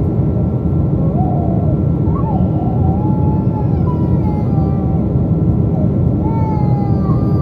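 Steady loud rumble of a Boeing 777's engines and airflow heard inside the cabin. Over it, a series of high, wavering cries rise and fall, each lasting about half a second to a second and a half.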